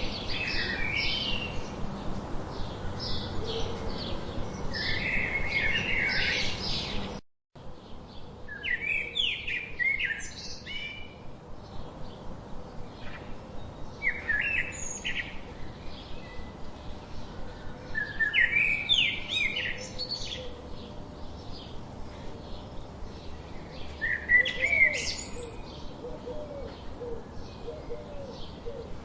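Wild birds singing, with short chirping phrases repeating every few seconds over a steady background hiss. The sound drops out abruptly for a moment about seven seconds in.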